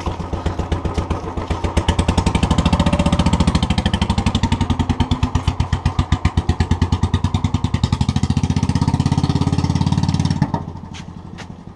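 Royal Enfield single-cylinder motorcycle engine running with an even, rapid pulsing exhaust beat, dropping away sharply for about a second near the end.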